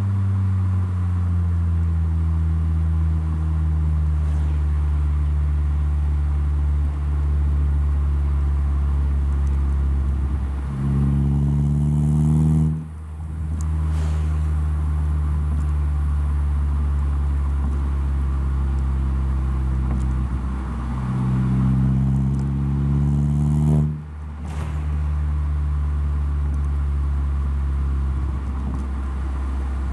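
Saab 9-3 with a handmade stainless-steel full exhaust, driving. Its engine and exhaust note runs steady, then twice rises in pitch under acceleration, breaks off sharply and resumes lower, as at a gear change.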